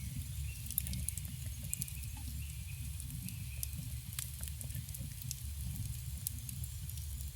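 Campfire burning: frequent sharp crackles and pops of wood over a steady low rumble of the flames.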